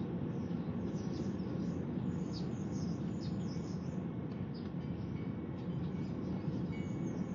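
Birds chirping in quick short high calls over a steady low rumble.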